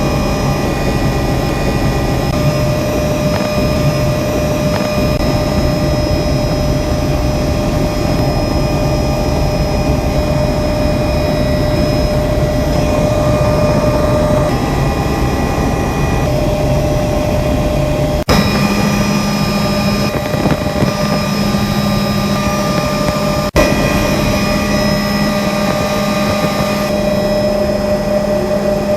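Steady, loud drone of a helicopter's turbine engine and rotors in flight, heard from inside the cabin, with a few steady whining tones over a dense rumble. The sound briefly drops out twice in the second half.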